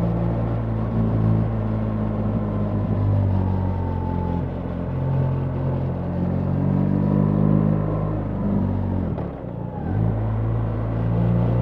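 BMW R 1300 GS flat-twin boxer engine running under way, its note rising and falling with the throttle. About nine seconds in the engine note dips briefly, then picks up again.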